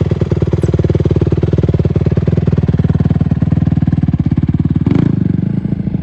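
Honda CRF150R's four-stroke single-cylinder engine running at low revs with a rapid, even firing beat as the rider eases out the clutch. About five seconds in there is a short knock and the engine note changes.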